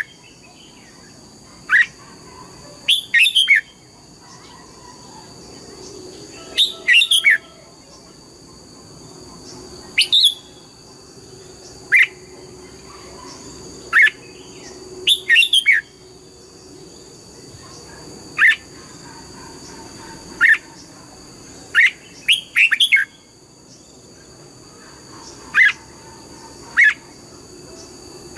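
Red-whiskered bulbul singing: short, sharp whistled phrases every second or two, some given as quick runs of two or three notes.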